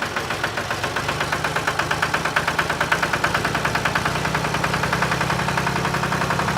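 Small engine of a miniature DIY tractor running steadily with a rapid, even beat.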